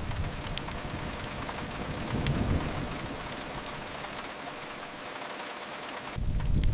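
Steady rain hiss against a window, with a low rumble that swells about two seconds in and a stronger one starting just before the end, and a few faint fireplace crackles.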